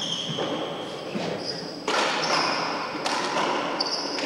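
Handball rally on an indoor four-wall court: a few thuds of the ball and players' footwork, with short high squeaks, over a steady hiss.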